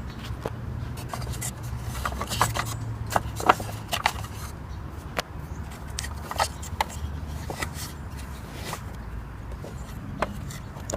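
Handling noises of a rubber band cut from an inner tube being worked onto a vacuum cleaner's brush roller: irregular plastic clicks, knocks, scrapes and rubbing, with a steady low hum underneath.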